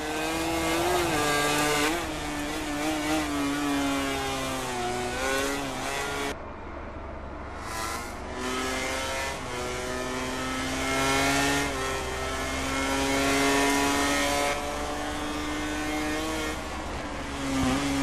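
MotoGP racing motorcycle engine at full race pace, its pitch climbing under acceleration and dropping back as the rider shifts and rolls off for corners, several times over.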